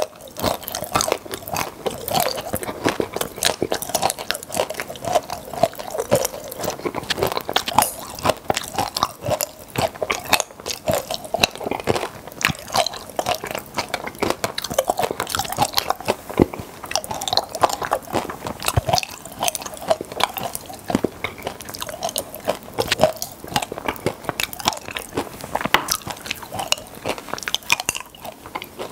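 Close-miked chewing of popping-candy chocolates: a dense, steady crackle of small crunches and snaps as the candy pops and the chocolate is chewed.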